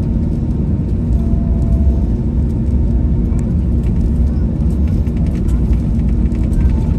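Steady low rumble inside the cabin of an Airbus A321-200 airliner with its engines running, with faint light rattles near the end.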